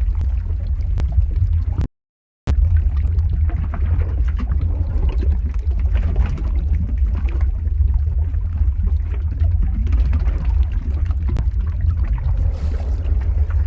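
Lava-flow ambience sound effect: a deep, steady rumble with a rough, churning hiss over it and scattered sharp crackles. It cuts out completely for about half a second, about two seconds in.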